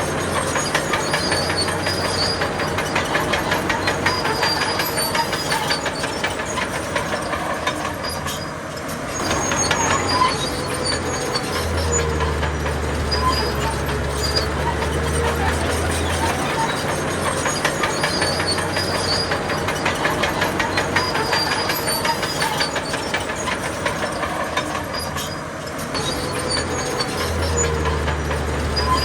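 Crawler bulldozer working: a diesel engine running under a dense, steady clanking of steel tracks, with a deeper engine note that swells in for several seconds at a time.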